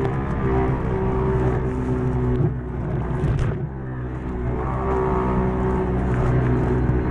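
Quad bike engine running hard at steady revs; about two and a half seconds in it turns rough and drops off, then picks back up to steady revs.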